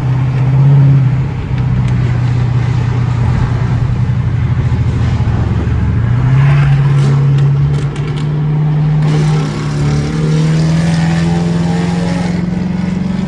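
Straight-piped Dodge Charger R/T's 5.7 Hemi V8 pulling on the highway. The exhaust note surges briefly, settles, steps up in pitch about six seconds in, then climbs slowly and steadily as the car accelerates.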